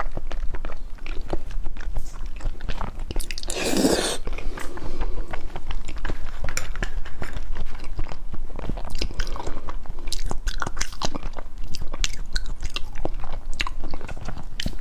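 Close-miked mouth sounds of a person chewing raw salmon: many small wet clicks, with one louder, longer rushing sound about four seconds in.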